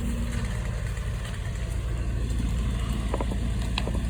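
An engine idling steadily with a low hum, with a few light clicks near the end.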